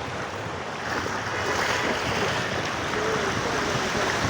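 Steady rushing water noise from heavy rain and floodwater, growing louder about a second in.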